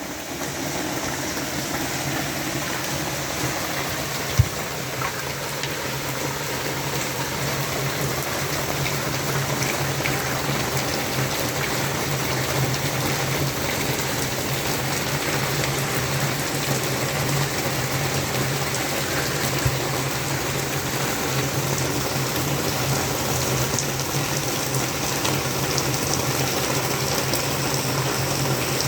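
Heavy rain falling steadily, a dense even hiss with a steady low rumble beneath it. Two single sharp clicks stand out, one about four seconds in and one about twenty seconds in.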